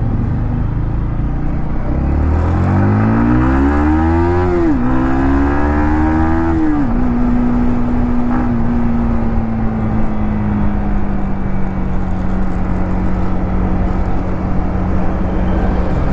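Yamaha MT-15's single-cylinder engine pulling up through the gears. The note climbs, drops sharply at an upshift, climbs again and drops at a second upshift, then holds a steady cruise with the pitch slowly sinking, over a constant rush of wind and road noise.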